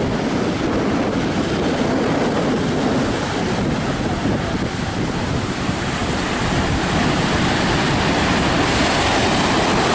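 Strong wind buffeting the microphone over the surf of a rough sea: a steady, loud rush of noise with low rumbling gusts.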